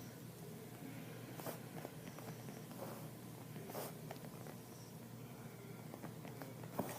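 Quiet room with a faint steady hum and a few faint clicks and rustles, like objects being handled.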